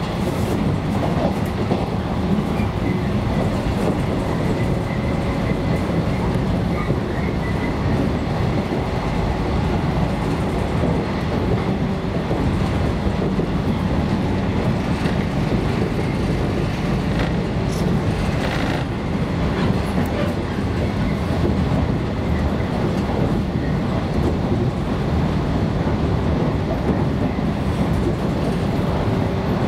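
JR West 115 series electric train running at speed, heard from inside the carriage: a steady rumble of wheels on rail and traction motors.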